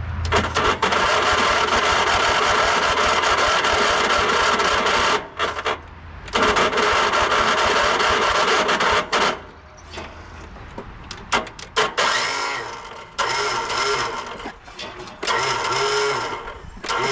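Electric starter on a Sabre by John Deere lawn tractor spinning and grinding in three long cranking attempts, separated by quieter pauses with a few clicks. The starter is failing: its plastic Bendix gear is stripped and not engaging the flywheel properly.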